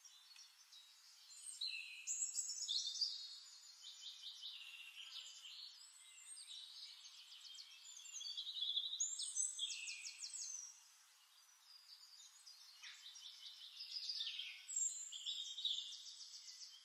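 Songbirds singing: a run of varied, rapid warbling phrases and trills, with a brief lull about two-thirds of the way in.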